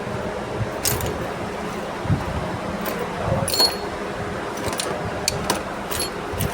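Scattered light metallic clinks and clicks of metal parts being handled during engine work, about seven in all, one near the middle ringing briefly, over a steady mechanical hum.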